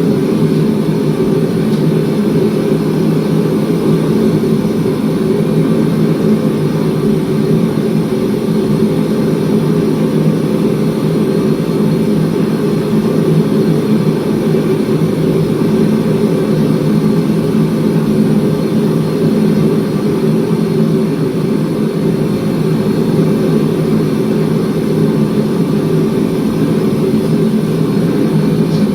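A forge burner running with a steady, unbroken roar.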